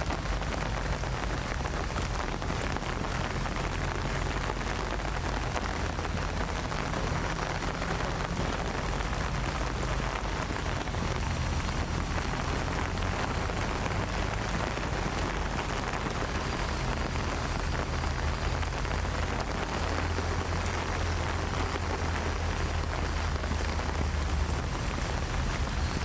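Steady rain falling, an even hiss with a low, steady hum underneath.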